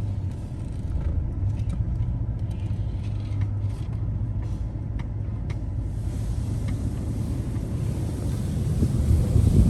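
Car engine running at low speed with a steady low rumble, with scattered faint ticks in the first half.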